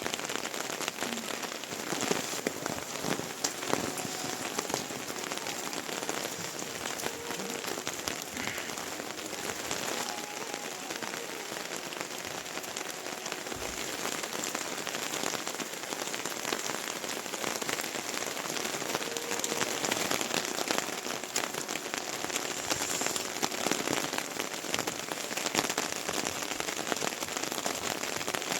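Steady rain falling, with many individual drops ticking on a surface close by.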